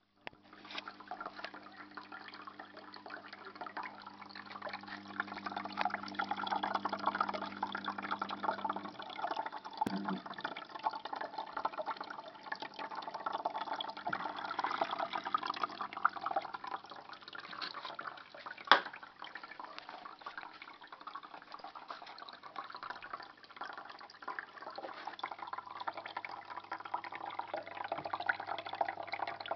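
Water trickling and splashing steadily in a small terrarium waterfall, with many small drips. A low hum sounds under it for the first third and returns near the end. One sharp click about two-thirds of the way through.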